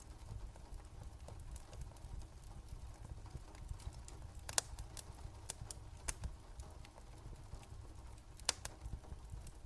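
Wood fire crackling: scattered sharp pops and snaps, two louder ones about four and a half and eight and a half seconds in, over a low rumble.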